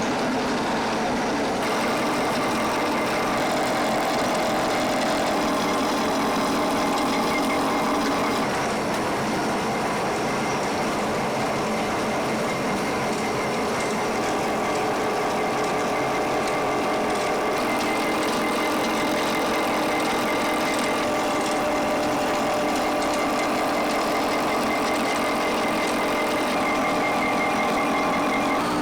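Steady din of industrial machinery running in a plastic recycling and pipe-making plant, a broad hiss with several constant humming tones; its character changes abruptly a few times.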